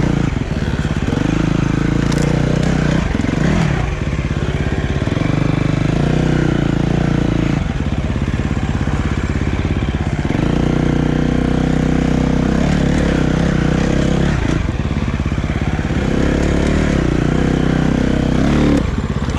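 Dirt bike engine running under way, its note dipping and picking back up several times.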